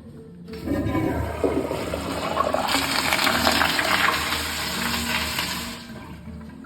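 Vortens Tornado toilet flushing. The water rush starts about half a second in, swells to its loudest in the middle, then dies away near the end.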